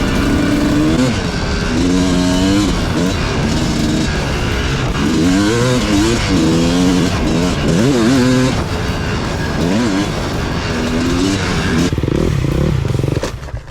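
250cc dirt bike engine revving up and down while being ridden, its pitch rising and falling over and over as the throttle is worked. The sound drops off suddenly just before the end.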